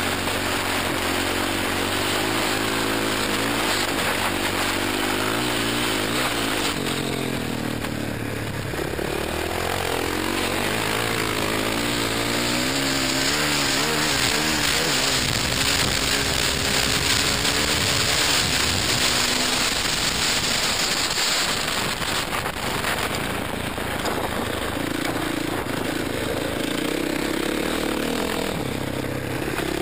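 Dirt bike engine running hard at racing speed, its revs rising and falling with the throttle and gear changes, under heavy wind noise on the helmet camera.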